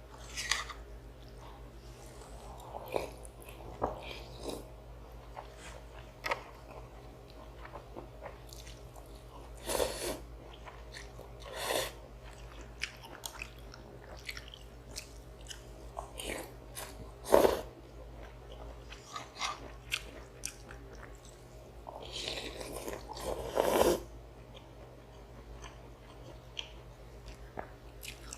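Close-miked eating of instant noodles and rice: chewing and biting, with scattered small mouth clicks and several louder, longer mouth noises, the loudest about two-thirds of the way through.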